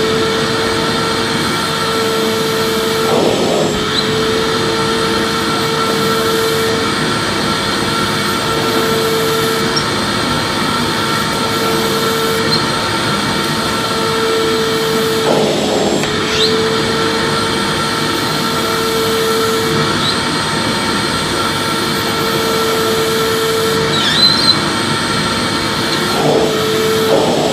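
Vacuum cleaner running steadily, with a mid-pitched hum in its note that comes and goes every couple of seconds.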